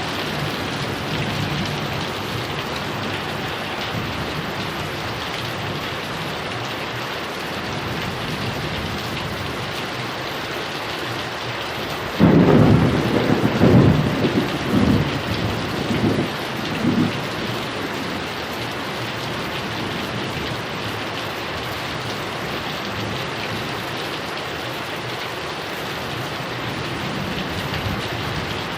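Heavy rain falling steadily. About twelve seconds in, a loud clap of thunder breaks and rumbles on in several rolling peaks for about five seconds before fading back under the rain.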